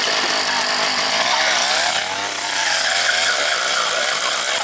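Two-stroke dirt bike engine revving hard, its pitch rising and falling about halfway through.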